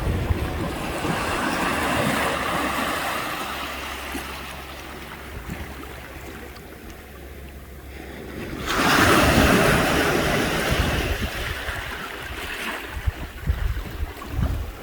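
Ocean waves breaking and washing up a sandy beach, with wind buffeting the microphone. One surge of surf comes early on and a louder wave crashes about nine seconds in.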